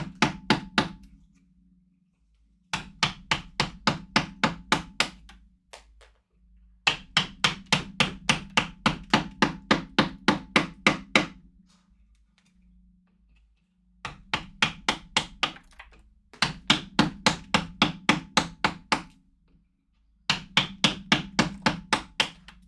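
Mallet rapidly striking a carving chisel into wood, about five sharp knocks a second, in runs of a few seconds broken by short pauses.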